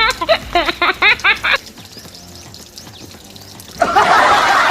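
A rapid run of chirpy, pitch-sliding tones for about a second and a half. About a second before the end, loud water splashing in a water-filled tractor trailer used as a pool.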